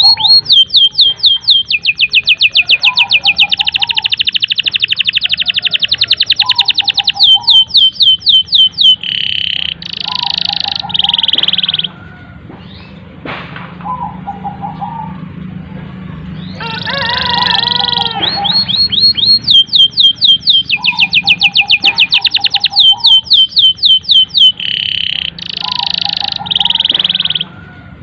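Canary singing a long, loud song of very fast trills and rolled phrases, in two bouts with a quieter gap of a few seconds in the middle. Short, lower calls repeat underneath.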